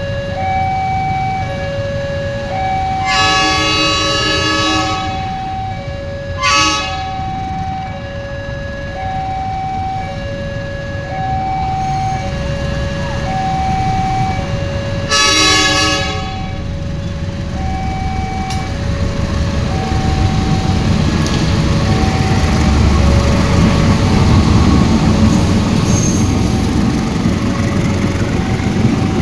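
Diesel locomotive of a Pertamina train sounding its horn: a long blast a few seconds in, a short toot soon after, and another long blast about halfway. In the last third, the low rumble of the moving train grows louder. Throughout, a two-note warning signal alternates steadily, each note about a second long.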